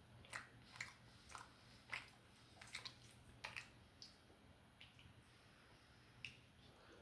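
Close chewing of food: a string of short, wet clicks and smacks at irregular intervals, loudest about two seconds in.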